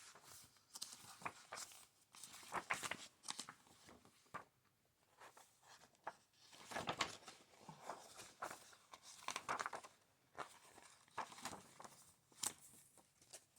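Pages of a book being turned by hand, paper rustling and sliding in short, irregular swishes with brief pauses between them.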